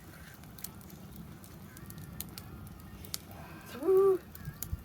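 Campfire in a fire pit crackling, with scattered sharp pops. About four seconds in, a short voice sound rises in pitch and holds briefly; it is the loudest moment.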